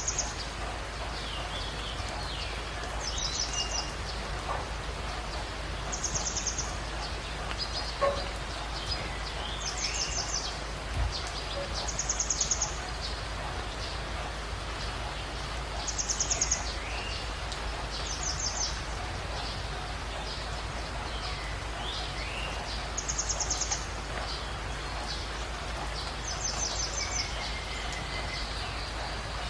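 Birds calling: a short, high, rapid trill repeated about every two to three seconds, with softer sliding chirps between, over a steady background hiss.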